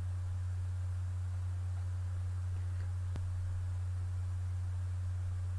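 Steady low electrical hum at about 100 Hz, with a single faint click about three seconds in.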